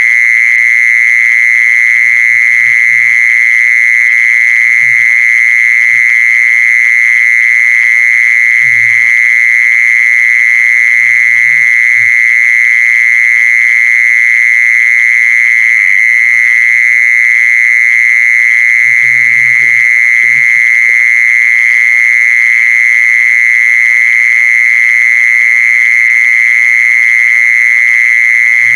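An insect singing one continuous, unbroken high-pitched trill that holds steady in pitch and loudness.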